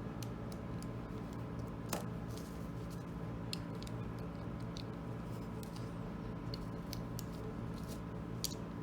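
Plastic LEGO bricks being handled and pressed together: scattered light clicks, a sharper one about two seconds in, over a steady low hum.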